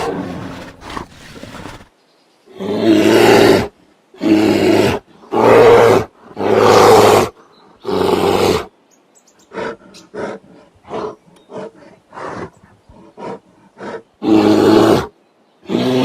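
Bear roaring and growling: a string of loud roars about a second long each, then a run of short grunts in the middle, and the roars again near the end.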